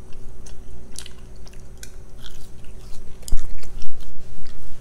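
Close-miked mouth sounds of someone biting and chewing a French fry: scattered small clicks and crunches, growing louder about three seconds in.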